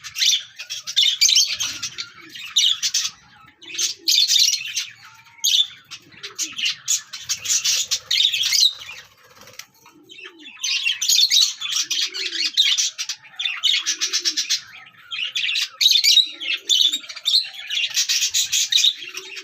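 Pair of lovebirds, a Fischer's lovebird and a lutino, chattering in rapid high-pitched chirps, in bouts of a few seconds broken by short pauses.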